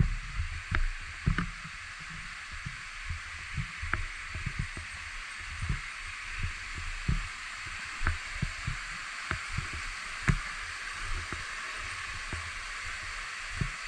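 Steady rushing water of a waterfall, with irregular low thumps over it.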